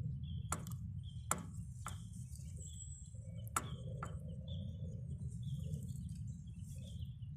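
Small bird chirping in short, repeated high notes over a steady low rumble, with a few sharp knocks scattered through.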